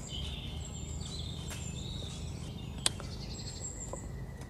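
Birds chirping and calling outdoors in high, thin whistles over a low steady background. A single sharp click about three seconds in.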